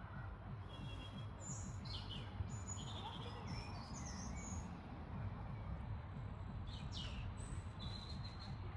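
Small birds chirping and singing in short, high notes, over a steady low rumble.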